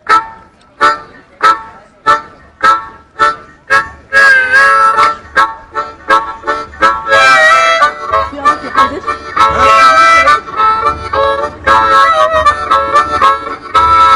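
Blues harmonica playing a train rhythm: short chugging chord blasts about every half second at first, then a quicker, fuller stream of held chords from about four seconds in.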